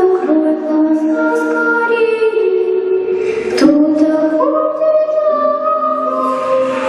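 Music with several voices singing long held notes, choir-like, the chord changing a little past halfway.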